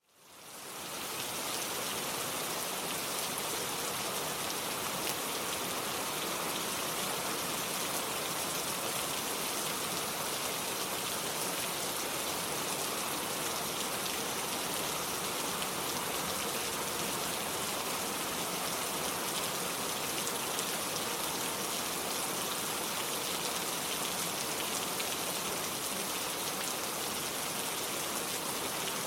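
Steady rain falling and pattering on surfaces, an even hiss with no let-up. It fades in over the first second.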